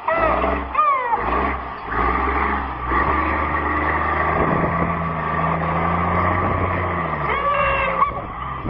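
Heavy truck engine running hard with a steady low drone, easing off about seven seconds in. Voices shout near the start and again near the end.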